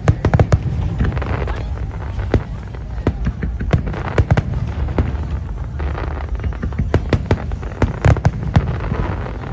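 Aerial fireworks going off: many sharp bangs and crackles at irregular intervals, thickest about half a second in and again near the end, over a low rumble.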